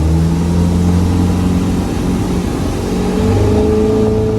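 Motorboat engine running under way at speed, its note shifting about three seconds in and then holding steady.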